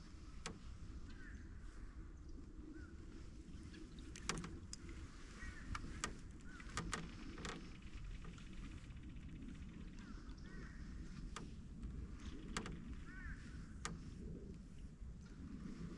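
Canoe being paddled: a low wash of water under the hull with sharp, irregular knocks and creaks from the paddle and the creaky canoe, about eight in all.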